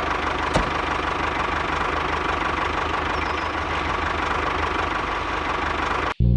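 Small engine of a homemade mini tractor running steadily, with one sharp click about half a second in; the sound cuts off abruptly near the end.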